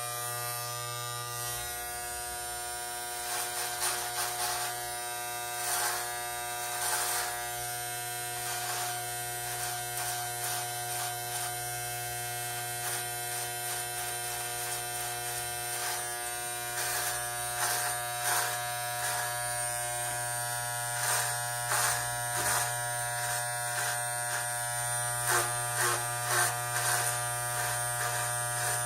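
Electric hair clippers buzzing steadily while shaving the sides of a head, with frequent brief crackles as the blades pass through short hair.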